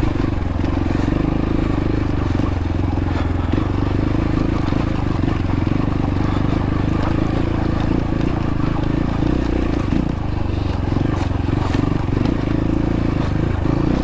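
X-Pro Templar X 250 dirt bike engine running at a low, steady pitch while crawling over rocky ground, with occasional light knocks.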